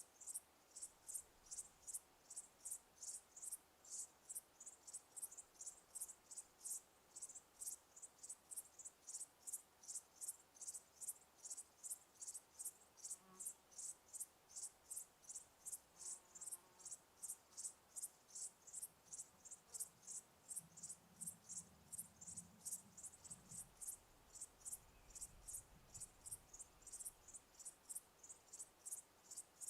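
Crickets chirping in a steady, even rhythm of high-pitched chirps, about three a second. A faint low rumble rises under them for several seconds about two-thirds of the way through.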